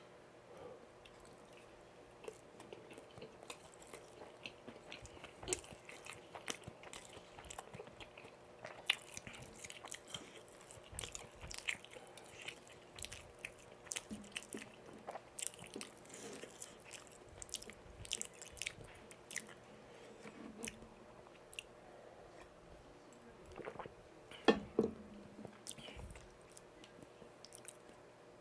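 Close-miked chewing while eating: wet mouth clicks and smacks at an irregular pace, with one louder burst about 24 seconds in.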